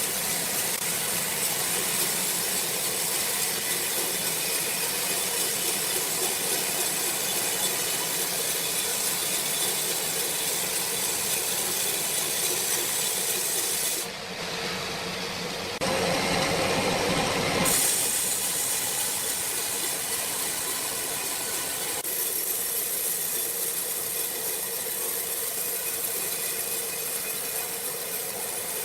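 Sawmill machinery running with a loud, steady hissing noise. About halfway through it changes abruptly and is louder and deeper for a couple of seconds, then settles back.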